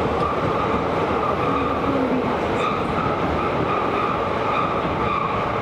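Tokyo Metro Series 16000 subway car running at speed through a tunnel, heard from inside the car: a steady rumble of wheels on rail with a held whine from the running gear.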